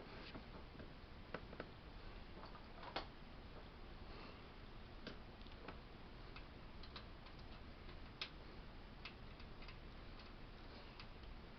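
Faint, irregular small clicks and taps of a bolt and nut being fitted by hand into a recliner's brace.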